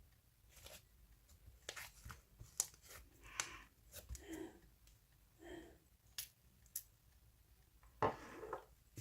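Quiet handling noises: scattered sharp clicks and short crinkling, rustling sounds, with a longer crinkly rustle near the end.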